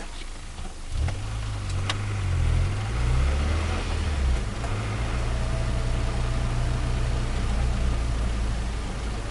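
Turbocharged Nissan Micra engine coming to life about a second in, its revs wavering unevenly for a few seconds before settling to a steady cold idle. A couple of sharp clicks come near the start.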